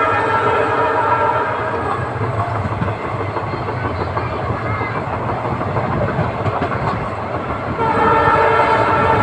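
Indian passenger train's locomotive horn sounding as one long held blast until about two seconds in, then the rumble and clatter of the coaches running on the track, then the horn again near the end, heard from on board the train.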